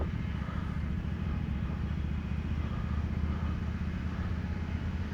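An engine running steadily at a constant speed, with no change in pace.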